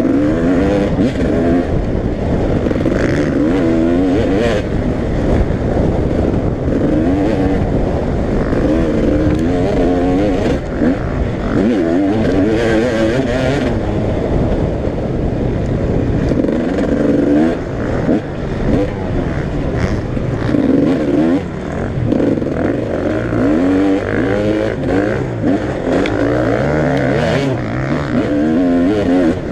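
Several motocross bikes racing, their engines revving up and down and overlapping as they accelerate and shift around the track.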